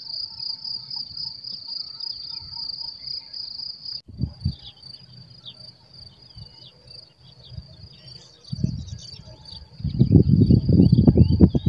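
A steady, high-pitched, pulsing chorus of insects chirring in the grass. Near the end, loud low-pitched thumping and rustling rise over it.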